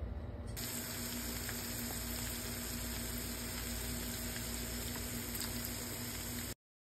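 Fish balls deep-frying in hot oil in a pan: a steady sizzle that starts about half a second in and cuts off suddenly near the end.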